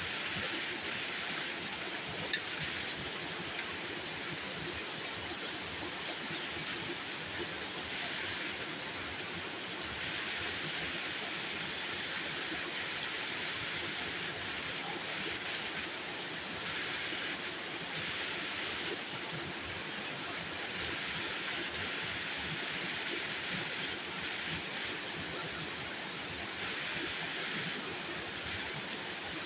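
Steady heavy rain falling, an even hiss that holds throughout, with one sharp click about two seconds in.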